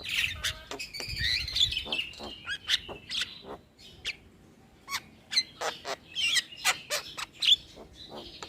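Javan myna (jalak kebo) singing a chattering song of short whistled glides, squawks and sharp clicks, with a brief lull a little before the middle.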